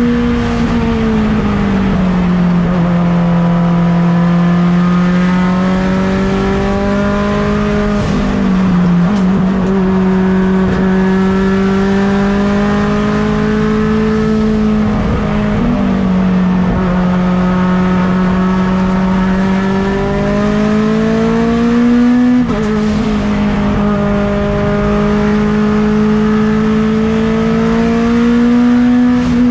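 Mitsubishi Lancer Evolution X's turbocharged 4B11 four-cylinder engine under hard racing load, its pitch climbing and sagging again and again as the car accelerates and slows, with several sudden drops in pitch at gear changes.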